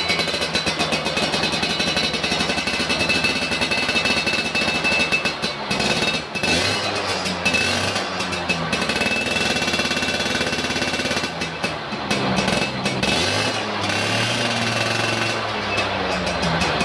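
Yamaha Alfa two-stroke moped engine running loud through a hollowed-out F1ZR exhaust, with a fast rattling exhaust note, revved up and down several times.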